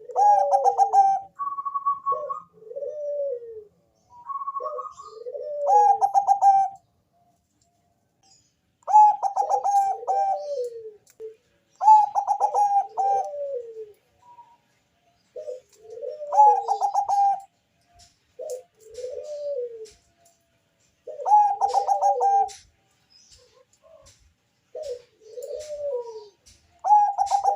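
Zebra dove of the Bangkok perkutut song strain singing its repeated song. Each phrase is a quick stutter of notes followed by falling coos, and phrases come every three to five seconds.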